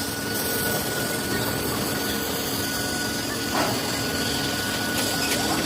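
A metalworking machine in a workshop running steadily, with a constant high whine over an even mechanical noise.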